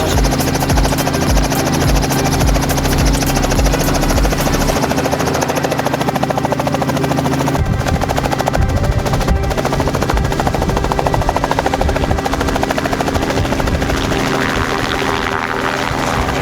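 Helicopter running close by, its rotor beating fast and steadily.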